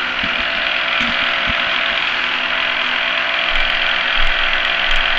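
Key duplicating machine running steadily, its motor and cutter making a constant mechanical whir, with a few light knocks about a second in.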